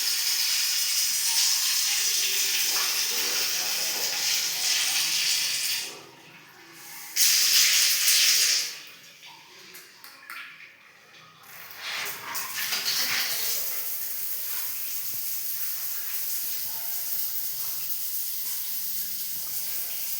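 Water running hard from a bathroom fitting, a steady hissing spray. It stops about six seconds in, gushes again briefly, falls quiet for a few seconds, then runs steadily again.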